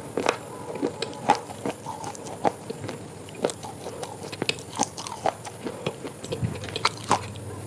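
Someone biting and chewing something hard and brittle, with a run of irregular sharp crunches, a few every second.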